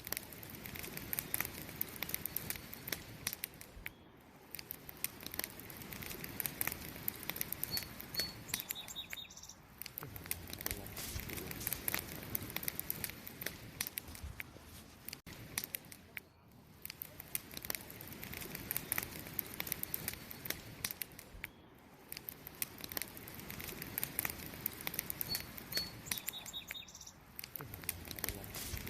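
Wood fire crackling, with a steady stream of small pops and snaps. A short high double chirp sounds twice, about eight seconds in and again near the end.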